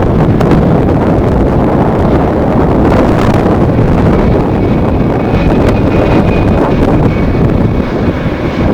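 Strong wind buffeting the microphone over the rumble of a jet airliner's engines, with a thin, steady high whine coming in about halfway through.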